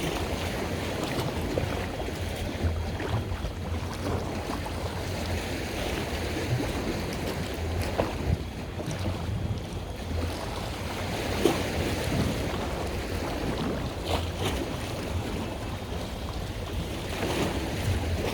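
Wind buffeting the microphone over water washing and splashing, with an uneven low rumble underneath.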